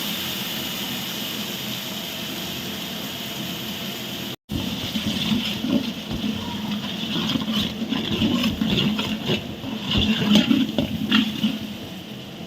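Onion-and-spice base frying in a large pot of hot oil and ghee, a steady hiss of sizzling. After a sudden cut about four seconds in, the sizzling goes on with irregular knocks and scrapes.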